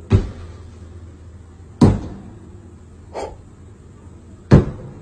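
Four sharp bangs spread over a few seconds, three loud and a fainter one between the second and third, each dying away quickly, over a low steady hum.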